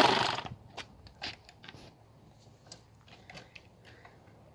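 Dirt bike pushed in first gear with the clutch out: a short, loud scrape right at the start as the rear wheel drags against the engine, then scattered faint clicks and creaks. The engine does not fire, because first gear takes too much force to turn it over.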